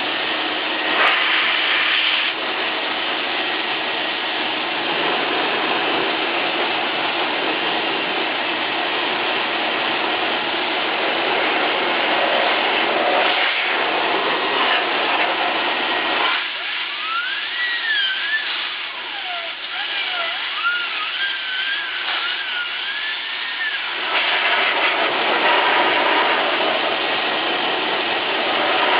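Vacuum cleaner in blowing mode blowing air through a desktop PC, a steady loud rush of air. For several seconds past the middle the rush thins and a wavering whistle rises and falls.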